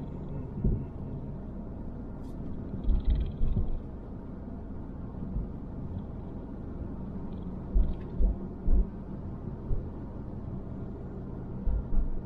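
Steady low rumble of a car driving, heard from inside the cabin, with several short low thumps a few seconds apart.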